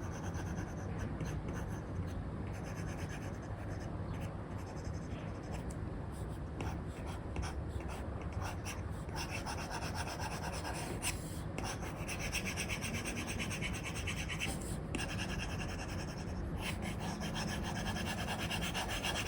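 Apple Pencil nib with an Elecom tip scratching across a paper-like film on an iPad screen, sketching. About halfway through the strokes turn into rapid, dense back-and-forth hatching, over a steady low hum.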